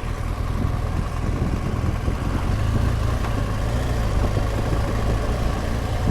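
BMW R1200GS Adventure's flat-twin engine running steadily while the motorcycle is ridden along at an even pace.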